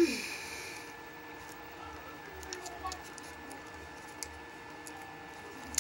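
A person chewing a Snickers candy bar: faint chewing with small scattered clicks and light rustles. There is a brief hum of enjoyment at the very start, falling in pitch.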